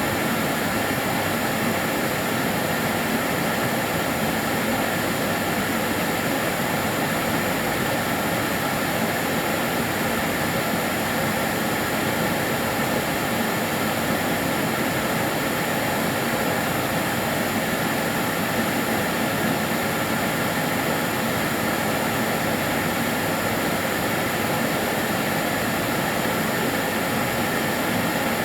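Kärcher DS 6 Premium water-filter vacuum cleaner running steadily: an even rush of air with a few faint steady high tones over it.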